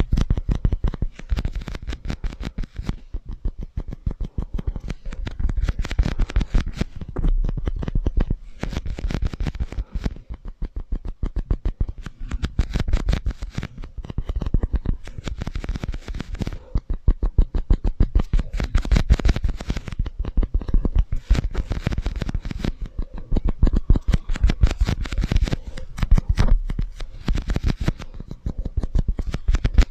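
ASMR tapping and scratching on two disposable drink cups, a fast, dense run of small clicks and taps with short pauses, played through an echo effect.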